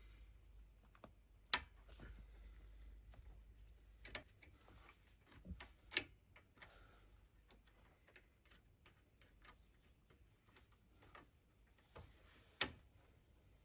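Scattered sharp clicks and knocks of hand tools working on a riding mower's engine, a few of them louder, over a faint low hum that stops about four seconds in.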